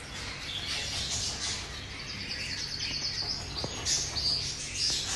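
Birds chirping, with a fast run of high repeated chirps from about two seconds in.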